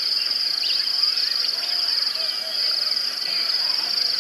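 Steady, high-pitched insect chorus with a fast pulsing trill, with scattered short bird chirps over it.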